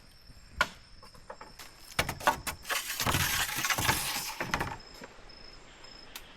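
A sharp knock, then a few more knocks and about two seconds of loud rustling and scraping, typical of work in the undergrowth, over a steady high insect whine.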